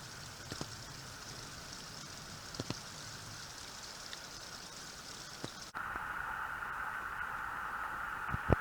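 Steady outdoor hiss, like rain or running water, with a few faint clicks; it changes abruptly about six seconds in to a louder, lower hiss, with a cluster of sharp knocks near the end.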